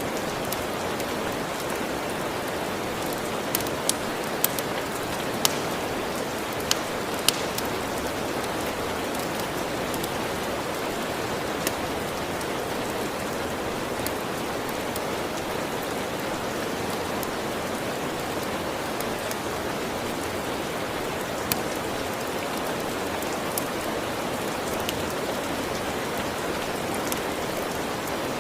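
Steady, even rain, with a wood fire crackling over it in occasional sharp pops, several close together in the first seven seconds or so, then only a few scattered ones.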